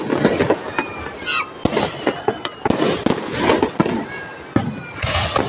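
Aerial fireworks going off: a rapid run of sharp bangs and crackling bursts, with a loud burst about five seconds in.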